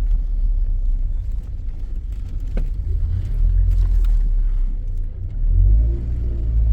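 A car on the move, heard as a steady low engine and road rumble with a few faint knocks.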